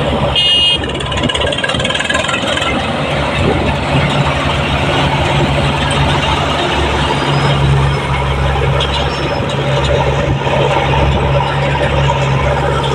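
Heavy diesel engine of farm or construction machinery running steadily, with a brief high-pitched tone about half a second in.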